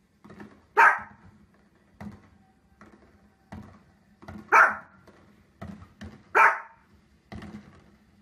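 Small spitz-type dog barking three times, loud and sharp, with quieter short sounds between the barks. The dog is barking at fireworks on the television.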